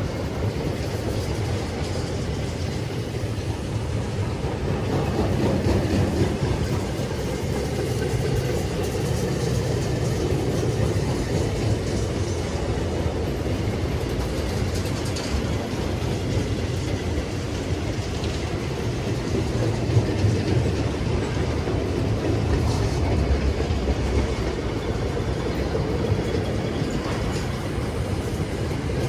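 A train running past on the track: a steady rumble of wheels on rail with some clickety-clack.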